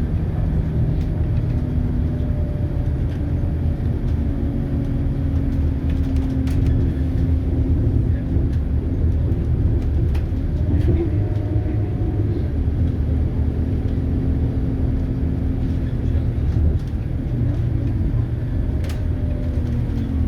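Scania K280UB city bus under way, its Scania DC9 five-cylinder diesel running with a steady low rumble. Faint whining tones drift slowly up and down in pitch as the bus changes speed.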